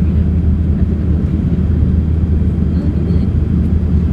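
Cabin noise inside a Boeing 787 airliner in descent: a steady low rumble of airflow and engines.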